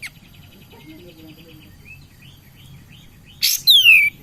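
Kapas tembak, a bulbul, calling: a fast rattling trill, then a run of short chirps, then loud, sharp calls near the end that slide steeply down in pitch.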